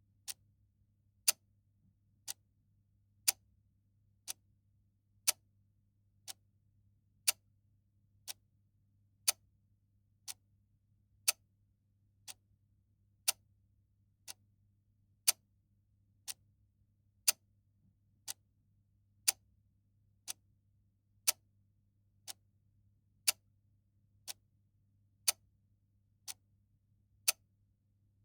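Clock ticking steadily, one tick a second, alternating louder and softer tick-tock.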